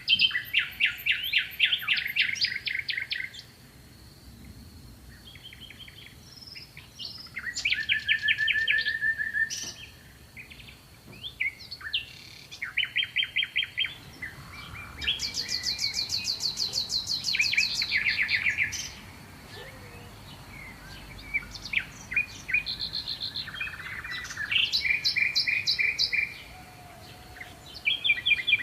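Several small songbirds singing, trading fast trilled and chirping phrases of one to three seconds with short pauses between, over a faint steady high tone.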